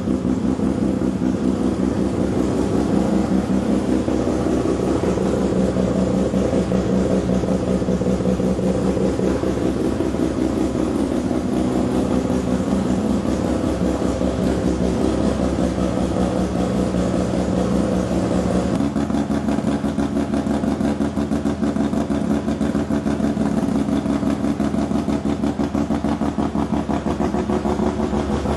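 1981 Mazda RX-7 FB's two-rotor Wankel rotary engine running loud through a large stainless steel exhaust, holding a steady speed with a choppy, pulsing rotary note. About two-thirds of the way through, the note shifts slightly and its upper tone drops away.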